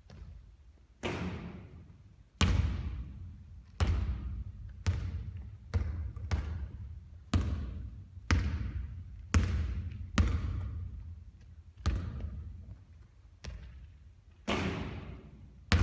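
A basketball striking hard surfaces during three-point shooting practice: about fourteen sharp thuds at an irregular pace of roughly one a second, each with a long fading echo.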